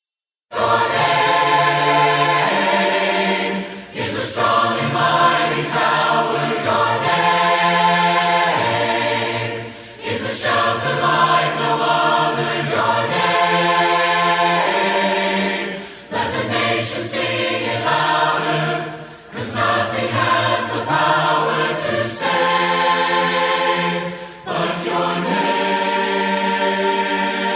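Choir singing a hymn a cappella, voices only with no instruments, in phrases broken by short breaths every few seconds.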